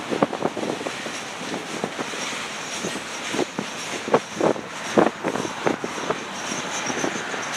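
Freight train cars rolling past, their wheels clanking irregularly on the rails over a steady rush of noise.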